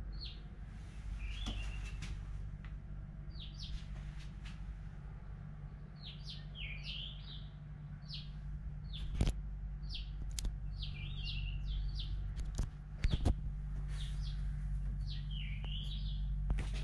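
Small songbirds chirping and warbling in short repeated phrases, over a steady low hum, with a few sharp clicks in the middle and near the end.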